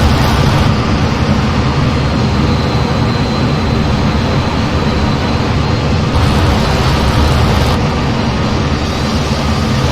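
Steady loud rumble of an F-15 fighter jet's engines and airflow in flight, heard from on board, strongest in the low end, with faint steady tones running through it.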